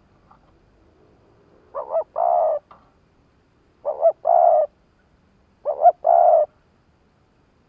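Decoy spotted dove cooing three times, each phrase two short notes followed by a longer held note, about two seconds apart.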